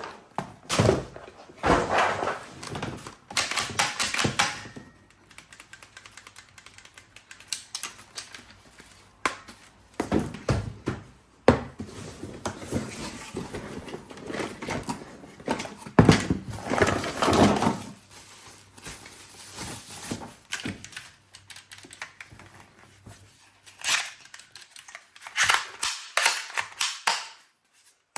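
Irregular clicks, taps and knocks of hard objects being handled, with several louder bursts of rustling and clattering lasting about a second each.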